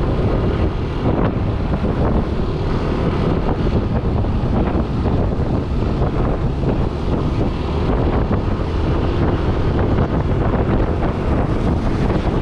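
Wind buffeting the microphone of a rider on a Yamaha NMAX 155 scooter at speed, with steady engine and road noise underneath.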